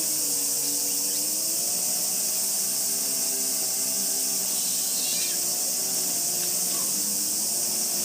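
Steady, high-pitched cicada chorus, with a motor droning underneath whose pitch slowly wavers up and down.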